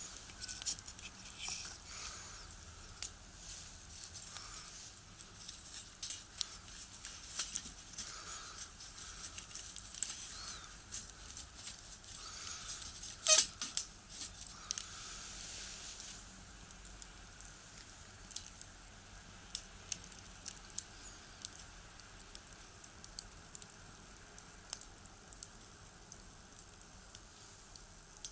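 Wood fire crackling in a small box stove: irregular sharp pops and snaps of burning firewood, one much louder pop about 13 seconds in, over a soft hiss that fades out a little past halfway.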